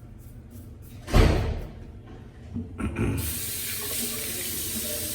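A loud thump about a second in, then from about three seconds in a sink tap runs steadily, water hissing into the basin.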